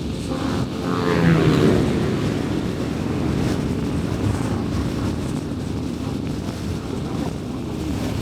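Car driving on a city road: steady tyre and road rumble with engine hum. About a second in, a louder engine sound swells and falls in pitch, then fades.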